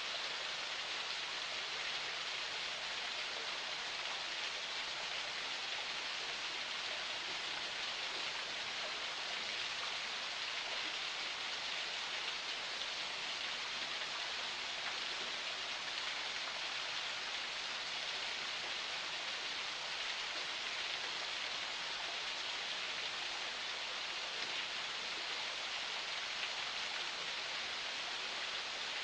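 Forest spring water flowing in a steady, even hiss without any change.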